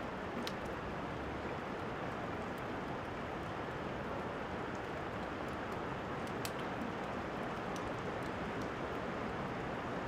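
Steady rain with a few sharp fire crackles over it, the clearest about half a second in and around six and a half seconds in.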